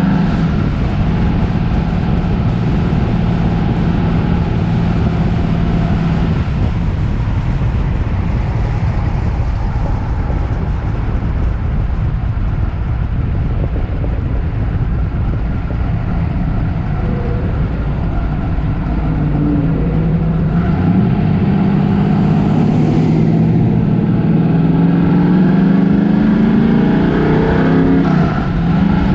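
A car engine running steadily under way, its note rising and falling a few times in the second half as the revs change.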